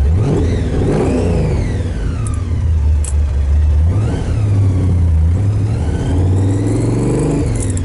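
Supercharged engine of an XB Ford Falcon Interceptor replica accelerating, revving up and easing off several times. A blower whine rises and falls with the revs.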